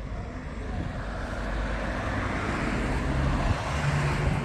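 Road vehicle driving past, its engine rumble and road noise swelling over a few seconds and easing near the end.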